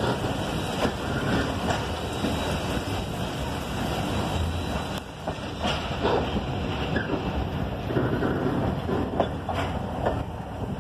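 Passenger train rolling through a station yard, heard from an open carriage window: a steady rumble of wheels on rails with irregular knocks as the wheels pass over rail joints and points.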